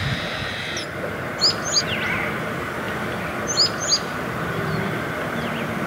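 A small bird calling: two pairs of short, high chirps, the first about a second and a half in and the second near the four-second mark, over a steady hiss.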